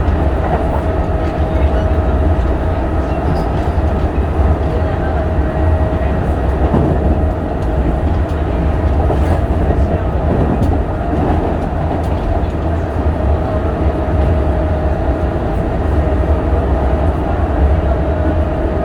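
Running sound inside a Kintetsu 8000 series electric train car at a steady speed: a low rumble of the wheels on the rails with a steady whine held at one pitch.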